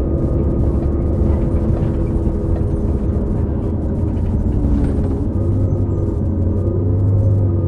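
2018 New Flyer XD40 bus under way, its Cummins L9 diesel and Allison B3400xFE transmission running steadily: a low rumble with steady tones above it that drift slightly in pitch. The tones are the odd transmission-bearing noise that a number of these buses make.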